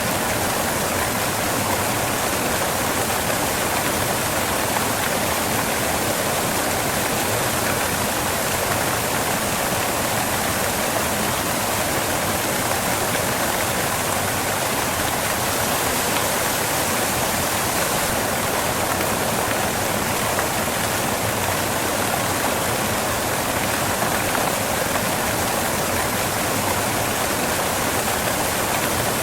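Waterfall crashing onto rocks: a steady, unbroken rush of falling water.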